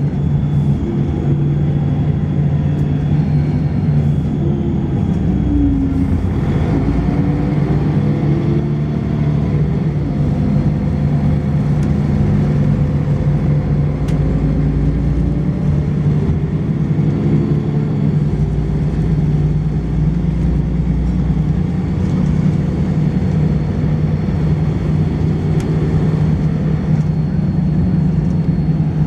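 Volvo B10BLE bus engine and ZF automatic gearbox heard on board, running with a steady drone and lots of thrash. Its pitch climbs and falls as the bus accelerates through the gears, once about a quarter of the way in and again past halfway, with a faint high-pitched whine over it in places.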